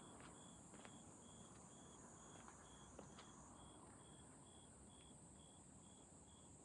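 Night insects calling: a steady high-pitched trill under a repeating chirp about twice a second, with a few faint clicks.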